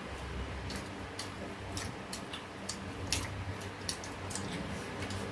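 Soft, irregular clicks of people eating, chewing and mouth sounds a few times a second, over a faint steady low hum.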